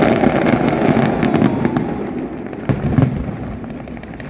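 Fireworks going off: a dense crackle of many small sharp reports, with two heavier bangs about three seconds in, then dying away.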